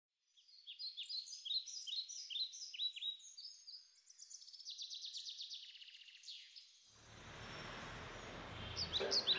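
Birdsong: a quick series of high chirps, then a fast rippling trill. About seven seconds in, a faint steady outdoor hiss and hum comes in, with a few more chirps near the end.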